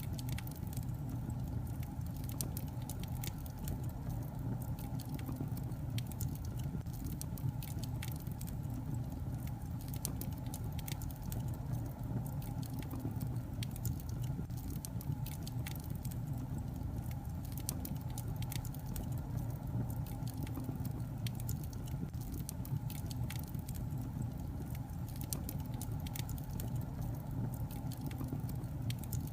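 Wood fire burning in a fireplace: a steady low rumble of the flames with irregular, scattered crackles and pops from the logs.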